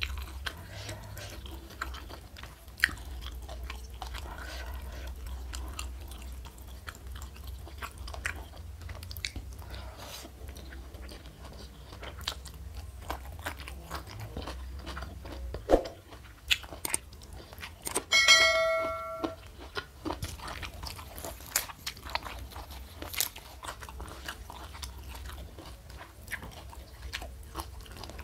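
Close-miked chewing and biting of crunchy fried food, with many sharp crunches and wet mouth clicks. A brief ringing clink, like a utensil striking a dish, sounds about two-thirds of the way through.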